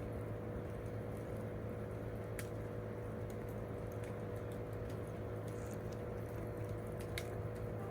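Campfire of burning wood crackling with small irregular ticks and a couple of sharper pops, over a steady low hum.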